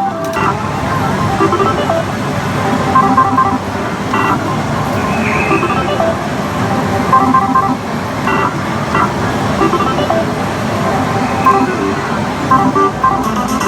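Pachislot hall din: a loud, steady roar of many slot machines with short electronic beeps and jingles sounding over one another.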